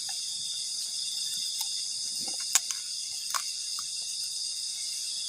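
Steady high-pitched chorus of crickets and other forest insects, with a couple of faint clicks midway.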